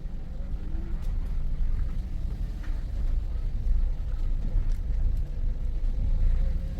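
Car engine running with a steady low rumble, a few faint light clicks over it.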